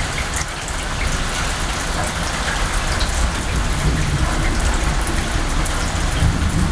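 Heavy rain pouring down during a thunderstorm, a steady dense hiss with scattered drop impacts and a low rumble underneath.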